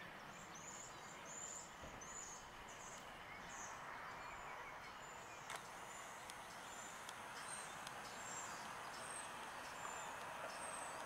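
Faint outdoor ambience: a small bird repeating high, short chirps about every two-thirds of a second, over a steady background hiss.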